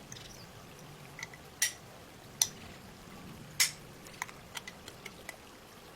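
Sharp clicks and taps of small parts of a diecast model car and hand tools being handled: three louder clicks in the first half, then a quick run of lighter ticks.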